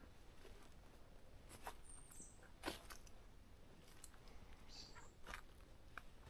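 Faint footsteps crunching on the forest floor, a soft crackle of leaf litter and twigs about every second and a bit, the sharpest step nearly three seconds in.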